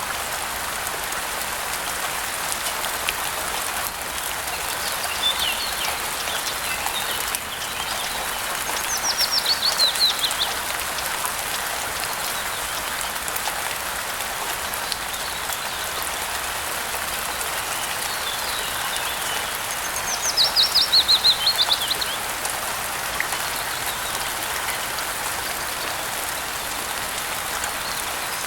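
Steady rain with birds singing. Twice, about nine and twenty seconds in, a bird gives a quick run of about ten descending notes, the loudest sounds here, with a few softer chirps in between.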